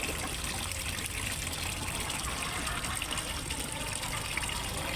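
Water splashing and trickling steadily into a fish pond, as from a small waterfall or fountain, with an even, unbroken rush.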